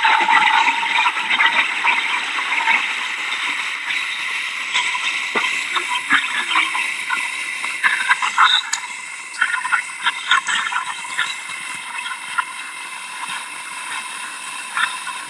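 Hurricane rain and wind: a dense, steady rushing hiss with many scattered crackles and spatters.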